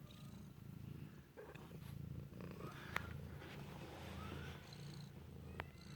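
Cat purring steadily and quietly, with a single sharp click about halfway through.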